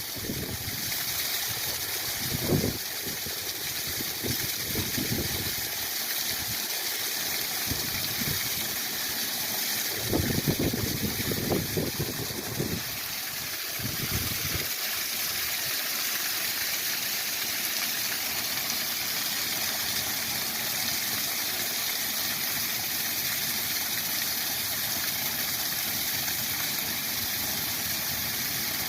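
Waterfall rushing steadily, with brief irregular low rumbles in the first half.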